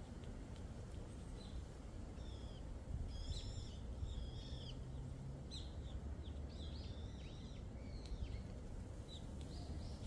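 Small birds calling: short, high chirps and down-slurred notes, several close together at times, over a low rumble of wind on the microphone.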